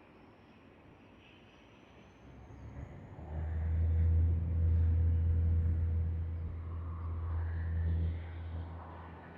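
Jet aircraft engine noise: a faint high whine slowly rising in pitch, then a strong low rumble that swells in about three seconds in and stays loud.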